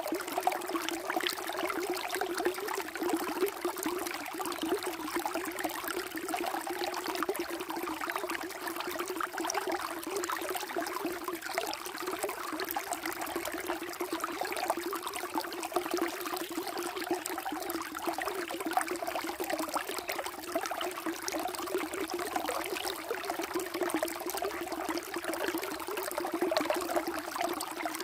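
Water flowing and trickling steadily, a continuous, even rush with fine splashing detail.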